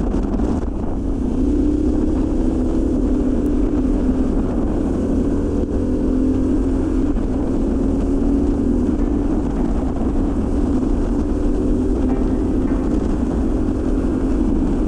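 Harley-Davidson Pan America Special's liquid-cooled 1250 cc V-twin running steadily while riding along the highway, with wind rushing over the microphone.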